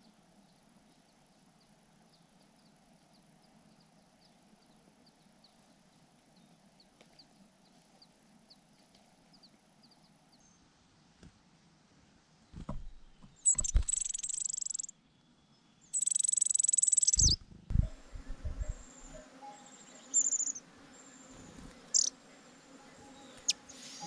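Birds at their nests. For the first ten seconds there is only a faint steady high whine with soft ticking. About halfway come two loud, shrill, high-pitched stretches of a second or so each, with low thumps among them. After that, short high chirps come every second or two.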